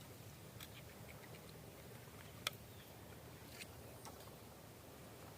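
Quiet outdoor ambience with a few faint ticks and one sharp click about two and a half seconds in.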